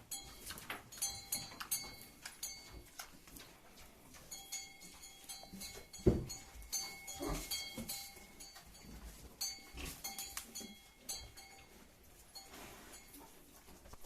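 Farm animal sounds, with short high ringing tones that repeat through most of the clip and one loud knock about six seconds in.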